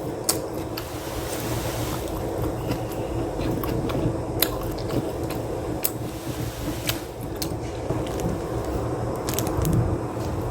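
Close-up chewing and biting of mushroom and cheese pizza, with scattered sharp crunches, over a steady low background rumble.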